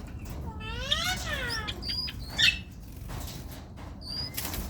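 Pet parrots calling: a drawn-out call that rises and falls in pitch, a sharp squawk about halfway, and short high chirps, with a brief flutter of wings near the end.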